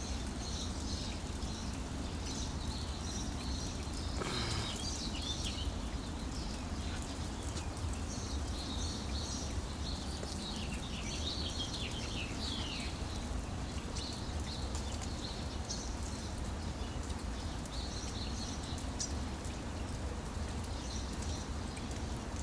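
Steady rain falling, with birds chirping now and then.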